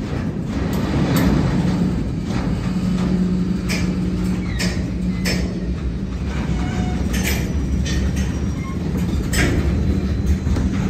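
Loaded freight train of covered hopper cars rolling slowly past on jointed track: a continuous low rumble of steel wheels on rail with a steady hum underneath, broken by about half a dozen sharp clicks and knocks from the wheels and trucks.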